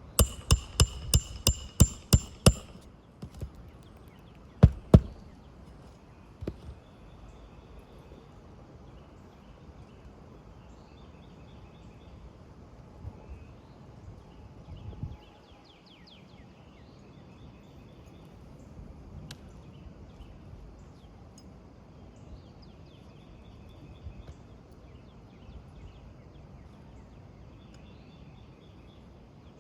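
A hammer striking roofing nails: a quick run of about eight ringing metal-on-metal blows, then two more a couple of seconds later. After that only birds chirping now and then over a low outdoor background.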